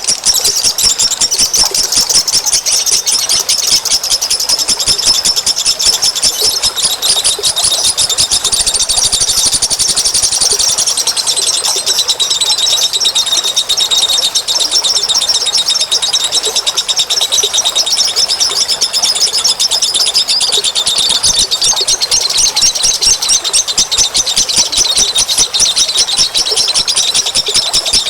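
Bird-lure playback of small songbirds chattering and twittering in rapid, unbroken high-pitched trills, with a steadier high note running through the middle stretch.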